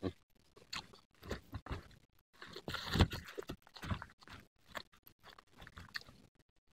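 Close-up eating sounds: a person chewing food with irregular crunches and smacks, the loudest about three seconds in, along with fingers mixing rice and food on a banana leaf.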